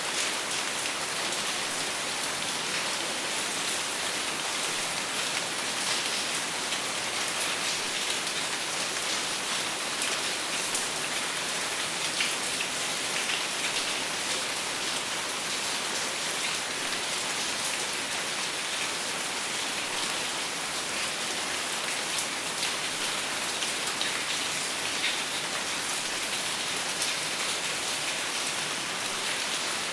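Steady rain falling on a surface, with a dense patter of individual drops and no thunder.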